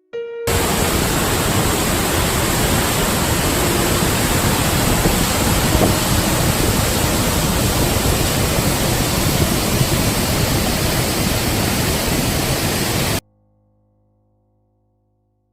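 Waterfall: a loud, steady rush of falling water that starts suddenly about half a second in and cuts off abruptly near the end.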